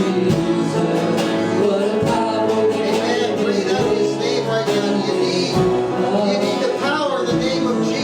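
Worship band music with singing over guitar and a steady bass.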